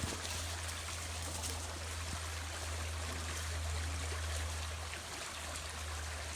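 River water running steadily, an even rushing hiss with a constant low rumble beneath it.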